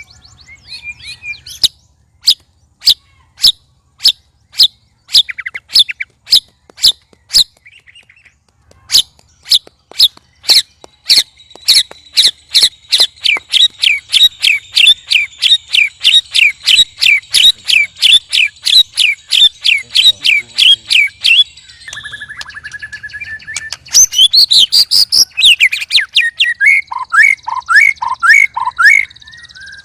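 White-rumped shamas (murai batu) giving loud, unusual calls: a series of sharp, clicking notes about two a second that speed up into a rapid rattle of about four a second, then a single held whistle and a run of quick swooping notes near the end.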